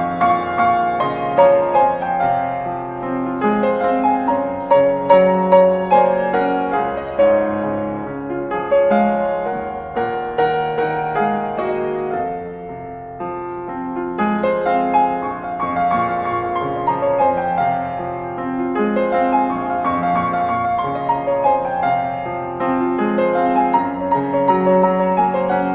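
Piano playing a continuous melody over chords, with a quieter passage about twelve to fourteen seconds in before it builds again.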